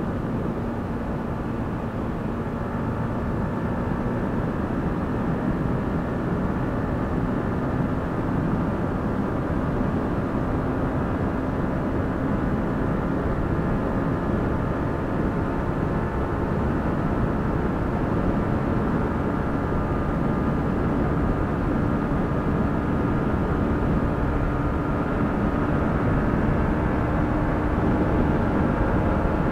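Yamaha MT-15's 155 cc single-cylinder engine pulling steadily in fifth gear, its note rising slowly as the bike speeds up past 100 km/h. Wind rushes over the microphone throughout.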